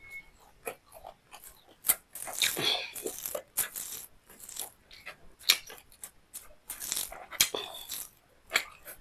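Close-miked eating: a person chewing beef liver and rice with wet mouth smacks and sharp clicks, in an irregular run of short bursts.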